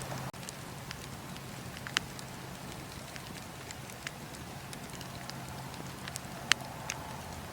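Campfire crackling: scattered sharp pops of burning wood over a steady hiss and low rush of the flames, the strongest pops about two seconds in and near the end.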